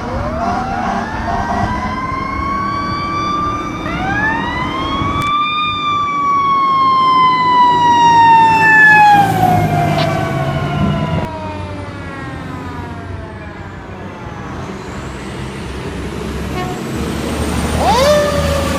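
Fire truck siren wailing as the truck passes: the pitch climbs, climbs again to a peak about five seconds in, then slides slowly down and fades by about ten seconds, before a new rise near the end. Truck engine rumble runs underneath.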